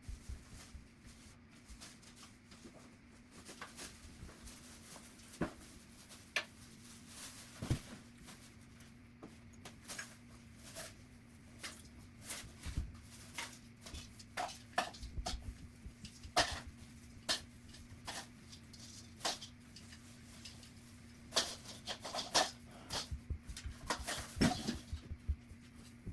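Scattered knocks, clicks and rustles of household objects being handled and put away while tidying a room, sped up to double speed, busier in the second half, over a steady low hum.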